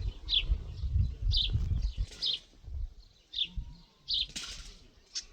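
Birds chirping outdoors, short downward chirps repeating about once a second, over an uneven low rumble that is strongest in the first couple of seconds.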